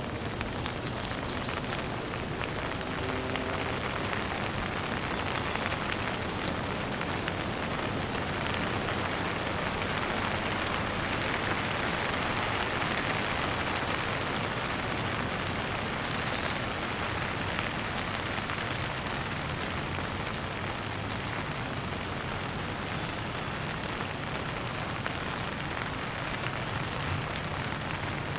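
Steady rain falling, with one brief high chirp from a bird about halfway through.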